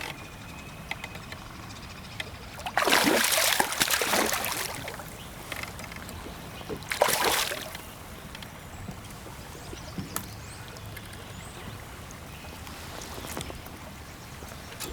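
Water splashing beside a kayak in two loud bursts, the first about three seconds in and lasting nearly two seconds, the second shorter about seven seconds in, over a faint steady wash of river water.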